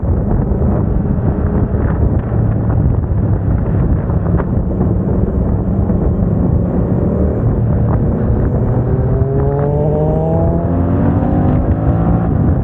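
Yamaha MT-07's parallel-twin engine through a MIVV aftermarket exhaust, under way with heavy wind noise on the microphone; the engine note holds steady, then climbs in pitch over the last few seconds as the bike accelerates.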